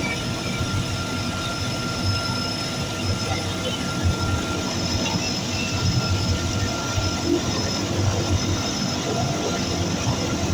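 Twin turboprop engines of a DHC-6 Twin Otter running steadily, a low rumble with a constant high whine.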